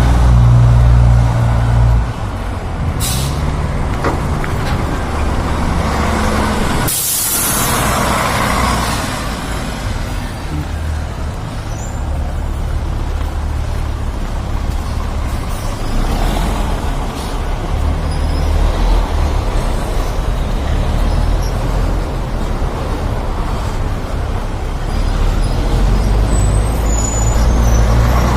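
Wind buffeting the microphone in uneven low rumbles over street traffic noise, with a short loud hiss about seven seconds in.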